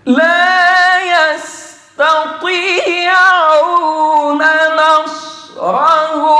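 Male voice chanting Quran recitation in the melodic mujawwad style. He draws out long, ornamented held notes in three phrases, with short breaths about two seconds and five and a half seconds in.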